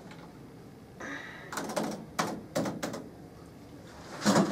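A brief rustle, then several sharp clicks and knocks in quick, irregular succession.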